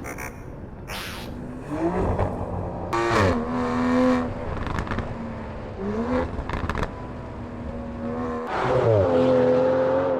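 Aston Martin V12 Speedster's V12 engine through a Quicksilver Titan sport exhaust, rising in pitch in three short pulls, each settling into a steady held note.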